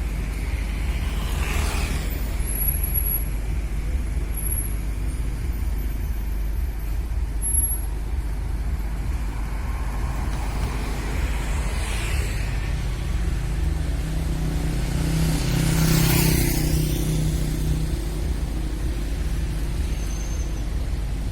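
Scania P380 truck's diesel engine running steadily under load with a low rumble, its note swelling about two-thirds of the way through. Three brief whooshes pass over it, near the start, around the middle and at the loudest point.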